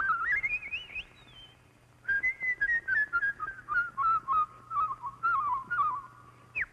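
A woman imitating eerie bird calls by whistling: a warbling call that rises in pitch, a short pause, then a long run of quick wavering notes stepping gradually down in pitch.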